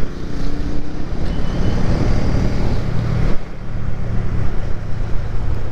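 Motorcycle engine running steadily at road speed, with a rush of wind across the microphone; the engine note and wind ease briefly a little past the middle.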